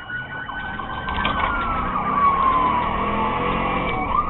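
Police car siren on a slow wail, its pitch falling through the middle and rising again near the end, over the patrol car's engine and road noise.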